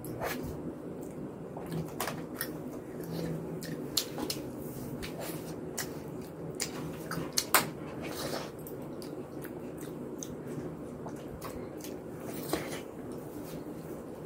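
Close-up mouth sounds of a person eating soft rice-and-lentil khichuri by hand: wet chewing with many short smacks and clicks, one louder smack about halfway, over a steady low hum.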